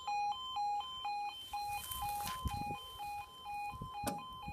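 UK level crossing warning alarm: a two-tone yodel switching back and forth between a lower and a higher note about twice a second, warning that a train is approaching.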